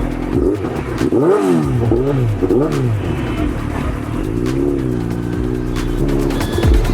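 Suzuki Hayabusa inline-four engine revving up and down in short blips, with background music underneath.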